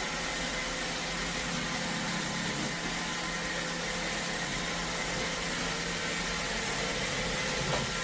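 iRobot Roomba robot vacuum running: a steady hiss of motor and suction with a faint high hum.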